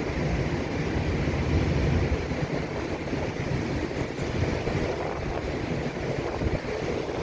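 Pop ETR 104 electric multiple unit running through the station, a steady low rumble, with wind buffeting the microphone.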